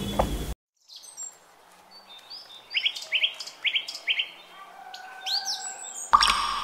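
Birds chirping: short, quick downward-sweeping chirps repeated several times, after room noise cuts off abruptly half a second in, with a brief rushing noise about six seconds in.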